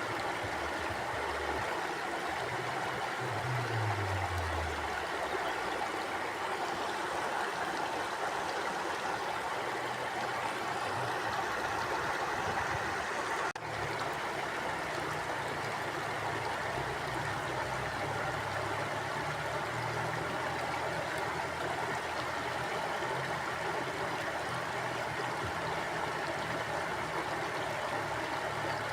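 Mountain stream flowing steadily over rocks, a continuous rush of water with a wavering low rumble underneath. There is one momentary dropout about halfway through.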